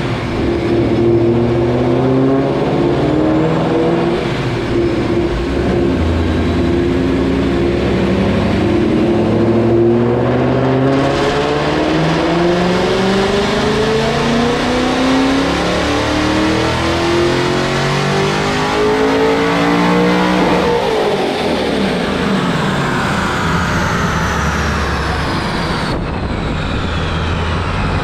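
Supercharged Ford Mustang engine with a built forged bottom end, Procharger and headers, revving up in one long, steady climb with a rising supercharger whine, then dropping off suddenly about twenty seconds in.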